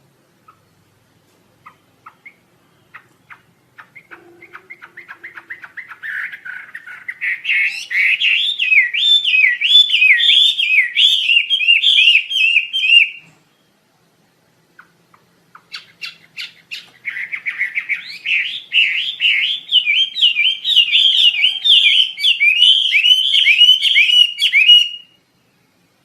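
A 'Wambi Asia' songbird singing two long bouts. Each begins with scattered chirps that quicken into a loud, rapid, rolling trill of up-and-down notes. The first bout breaks off about halfway, and the second starts a couple of seconds later and runs until near the end.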